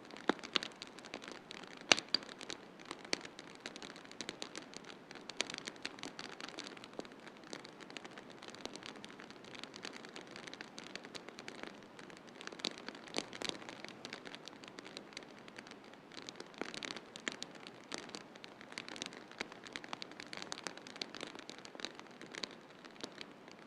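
Wood fire crackling in a fireplace: irregular sharp pops and snaps over a soft steady hiss, the loudest pop about two seconds in.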